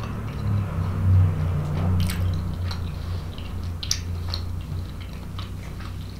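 Close-miked chewing of a mouthful of soft lasagna, lips closed: a low rumble of chewing with scattered small wet mouth clicks.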